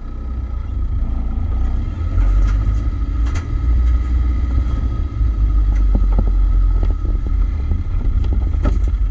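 Land Rover Defender 90 driving on a snowy trail, heard from inside the cab: a steady low engine and drivetrain rumble, with a few sharp knocks and rattles along the way.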